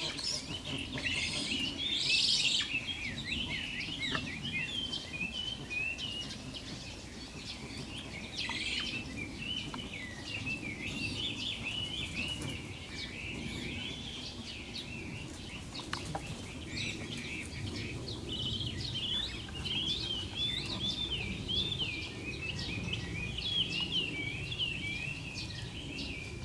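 Birds chirping continually: many quick, wavering chirps overlapping throughout, over a low steady background hum.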